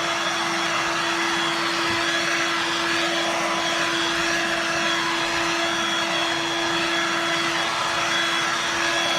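Hoover Dirt Devil Vibe corded stick vacuum running steadily, a constant motor whir with a steady whine.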